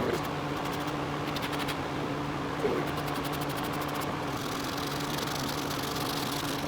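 A steady low mechanical hum from a running motor, with faint quick ticking twice in the first half.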